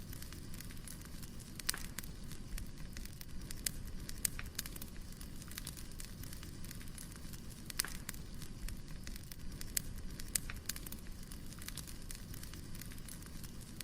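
Wood fire crackling: irregular sharp pops and snaps over a steady low background of burning logs.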